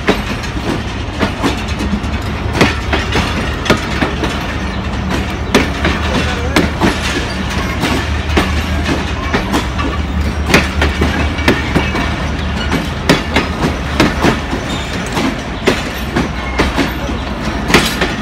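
Passenger train coaches rolling past close by: a steady low rumble of the wheels on the rails, broken by many irregular sharp clicks and clanks as the wheels cross rail joints.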